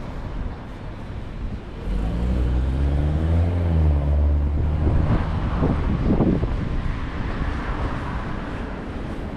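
A motor vehicle passing close by on a city street, over a steady background of traffic. Its engine rumble swells about two seconds in and its pitch rises and falls, then it gives way to tyre and road noise that fades toward the end.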